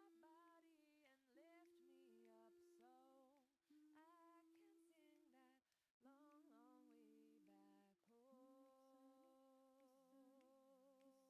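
Faint background meditation music: a solo voice singing a slow, wavering melody in phrases a few seconds long, with short breaks between them.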